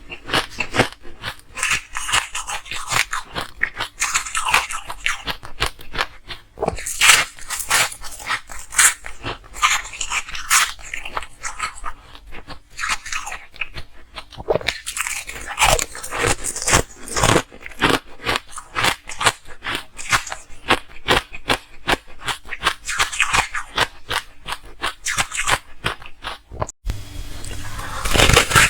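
Ice being bitten and chewed close to the microphone: a dense run of sharp, irregular crunches, several a second.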